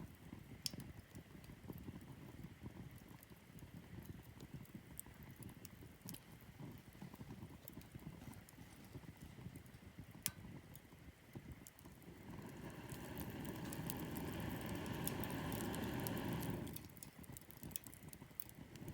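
Wood fire crackling softly with scattered small snaps and two sharper pops. Past the middle a louder rushing noise swells for about four seconds and then cuts off suddenly.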